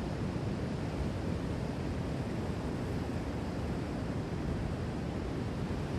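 Steady low rush of calm ocean surf mixed with wind on the microphone, with no distinct wave breaks.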